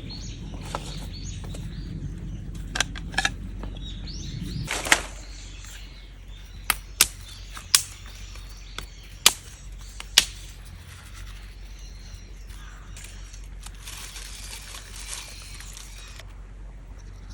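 Firewood giving about eight sharp, separate cracks over the first ten seconds, over birds chirping outdoors. A low rumble stops about five seconds in.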